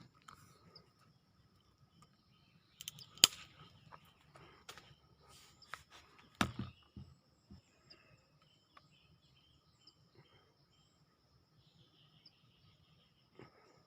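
Outdoor ambience with a steady high insect drone. Rustling and a few handling knocks come through the middle, the sharpest a click about three seconds in, then a duller knock a few seconds later.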